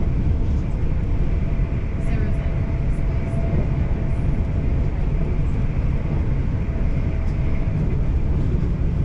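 South Western Railway passenger train running along the line, heard from inside the carriage: a steady, loud low rumble of wheels on track with a faint steady whine above it.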